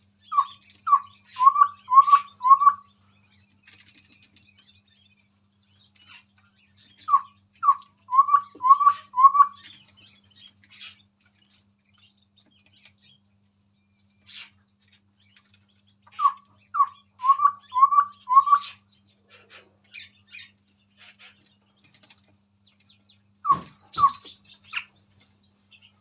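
Chestnut-rumped babbler singing: bouts of about five short, low whistled notes in quick succession, repeated three times roughly eight seconds apart, with fainter, higher chirps between. Near the end come two more notes and a single thump.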